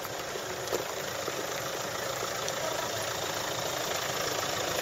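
A car engine idling, slowly getting louder.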